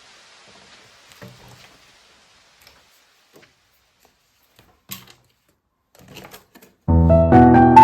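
Faint, scattered small clicks and light knocks, with one sharper click about five seconds in; piano music starts abruptly near the end and is the loudest sound.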